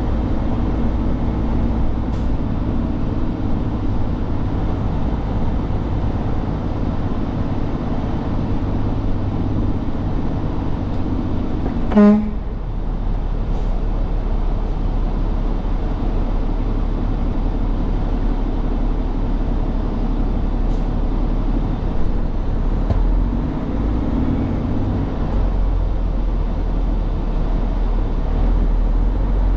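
Steady truck engine and road noise while driving, with one short horn toot about twelve seconds in.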